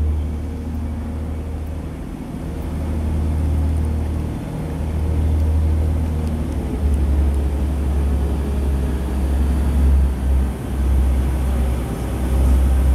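A train at a station, a deep low rumble that swells and eases, with faint engine tones above it and a brief dip about ten seconds in.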